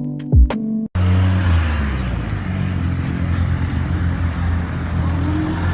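Electronic music with deep kick-drum beats cuts off abruptly about a second in. Street traffic follows, with a vehicle engine running steadily close by.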